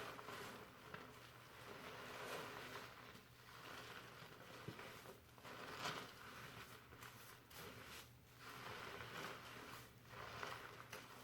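Fingers slowly working shampoo lather through hair: a soft, crackly rustle of foam that swells and fades every second or two.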